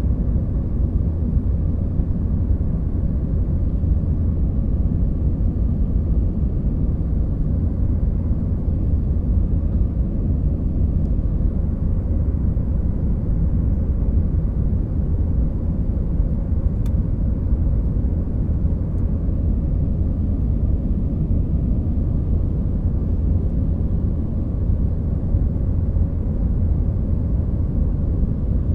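Steady low rumble of a jet airliner in flight, heard from inside the passenger cabin: engine and airflow noise.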